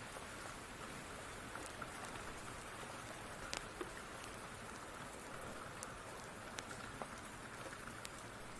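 Steady rain hiss with scattered sharp ticks and pops at irregular intervals.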